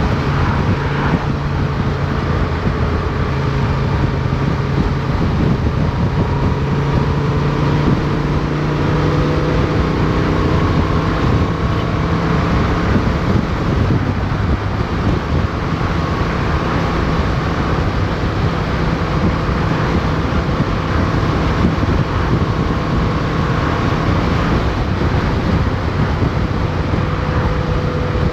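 Motorcycle engine running steadily under way, recorded onboard, with its pitch rising and falling a little as the rider changes speed, over a steady rush of wind and road noise.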